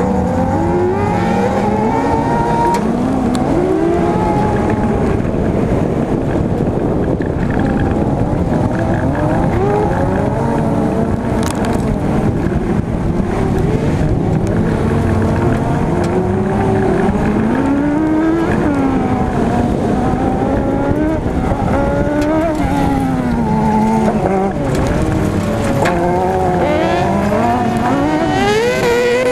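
Daihatsu Charade G102's 1.3-litre fuel-injected engine racing at full throttle, heard onboard: the engine note climbs and drops again and again as the driver accelerates, shifts and lifts through the corners, over steady road and gravel noise.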